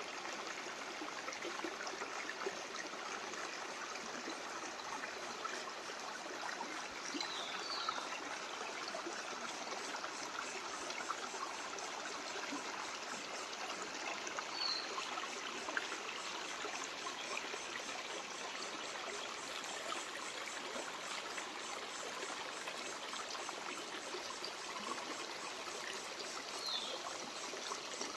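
A stream flowing and trickling steadily, with a few faint brief high chirps.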